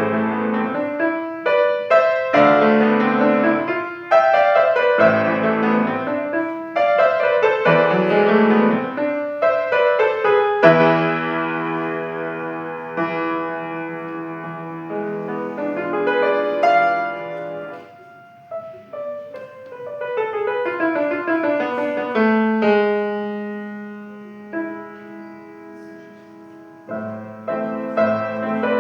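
Solo piano playing a Ukrainian shumka dance piece: fast rolling runs of notes at first, then held chords, a softer, sparser passage about two-thirds of the way through, and louder playing again near the end.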